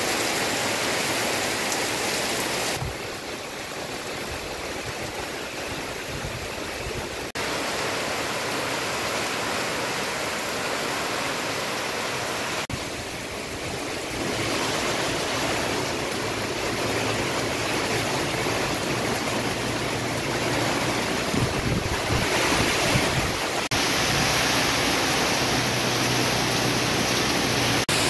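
Heavy tropical rain pouring down steadily on thatched roofs and foliage, a dense hiss of water. The loudness jumps up or down abruptly at several cuts, and the downpour is briefly louder, with low rumbling, about three quarters of the way through.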